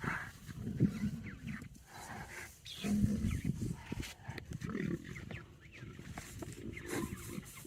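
Lions growling and grunting in low, irregular bouts, with one longer held growl about three seconds in.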